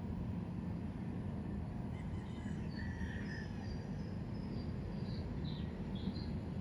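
Birds chirping faintly in short, high calls over a steady low background rumble.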